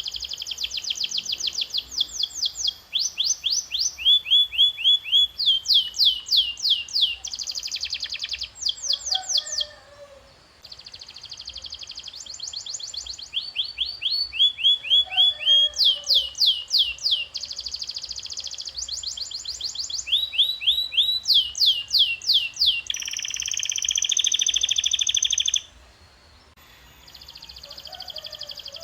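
Domestic canary singing its song in tours: runs of fast, evenly repeated high chirps, each run a second or two long, switching to a different syllable from one run to the next. Late on comes a longer, dense buzzing roll, and the song breaks off briefly twice.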